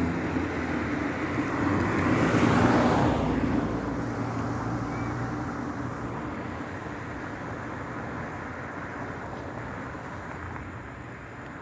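A motor vehicle passing by, its noise swelling to a peak about two and a half seconds in and then slowly fading away.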